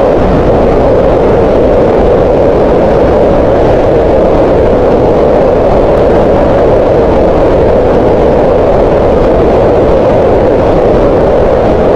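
Green noise: a steady, loud, even hiss whose energy is centred in the lower middle of the range. It stays unchanged throughout.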